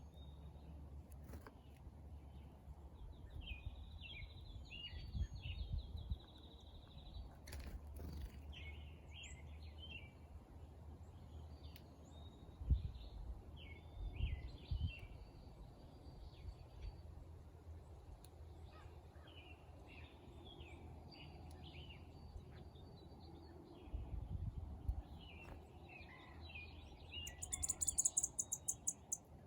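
Small songbirds chirping and twittering in a steady run of short calls, with a brief, very high, rapid trill near the end. Low rumbling runs underneath.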